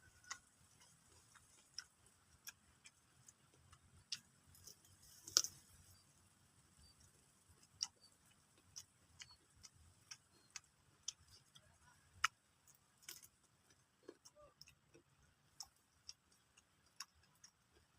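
Crisp, irregular clicks and crackles of crunchy chewing, one or two a second, as mouthfuls of raw unripe papaya are bitten and chewed close to the microphone.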